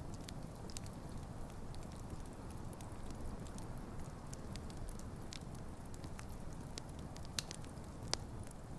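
Wood campfire burning with a steady low rumble of flames and frequent sharp crackles and pops from the logs, a few louder pops near the end.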